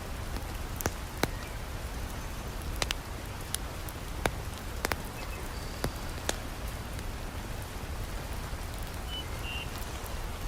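Steady hiss of heavy rain, with sharp pops and crackles from a wood fire in a fireplace, about nine of them in the first six seconds.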